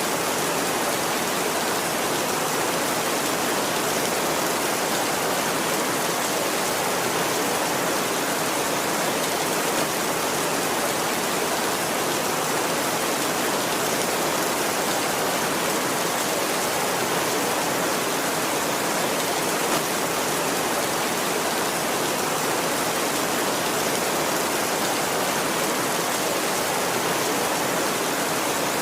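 Steady heavy rain falling, a dense even hiss of drops with no thunder.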